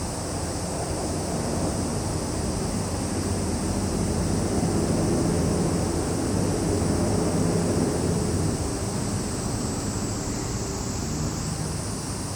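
Summer insects, cicadas and crickets, making a steady high-pitched drone, over a louder low engine rumble that swells in the middle and eases off again.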